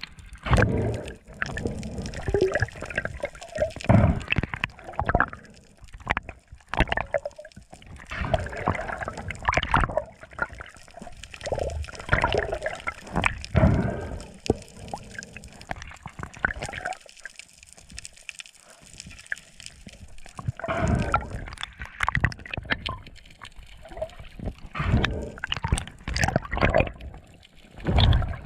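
Water sloshing and gurgling around the camera in irregular splashes and surges, as a spearfisher swims in the sea.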